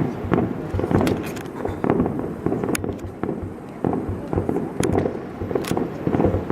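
Fireworks display: a dense, continuous barrage of bangs and crackling reports, several a second.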